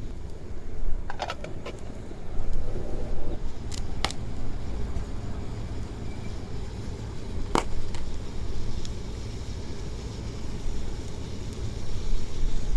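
Wood campfire crackling, with a few sharp snaps about a second in, around four seconds and near eight seconds, over a steady low rumble.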